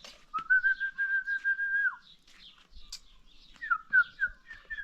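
Clear whistling: one long, level whistled note held for about a second and a half, then after a pause a quick run of short whistled notes, each dropping in pitch, with faint bird chirps behind.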